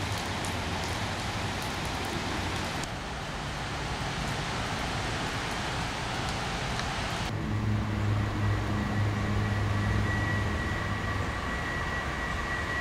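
Rain falling with pattering drops, then, after about seven seconds, the low rumble of an approaching freight train's diesel locomotives with a thin steady high whine over it.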